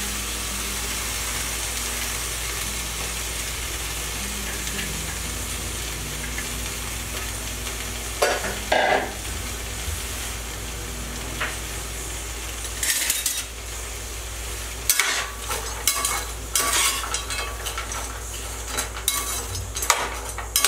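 Frozen chopped okra frying in hot oil in a stainless steel pan: a steady sizzle, the ice on the okra hitting the hot oil. Around 8 seconds in, and then repeatedly from about 13 seconds on, a slotted spoon scrapes and clinks against the pan as the okra is stirred.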